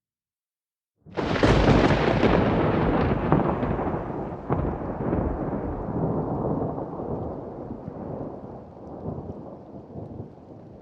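A thunderclap sound effect: it bursts in suddenly about a second in, then rumbles with a few sharp cracks while slowly dying away.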